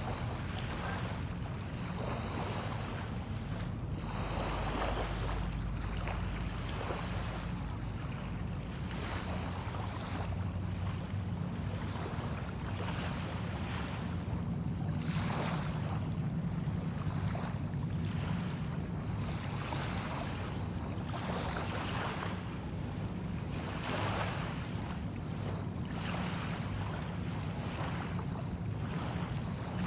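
Small bay waves washing onto a sandy shore, one soft wash every second or few, over a steady low rumble of wind on the microphone.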